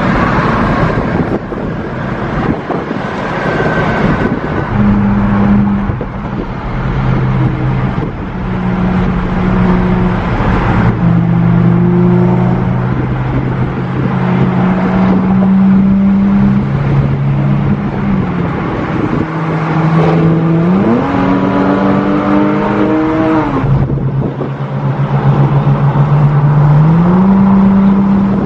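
Performance car engines running hard in a group cruise. The engine notes hold steady, climb under acceleration and drop back, like gear changes, with a long rising pull about two-thirds of the way through.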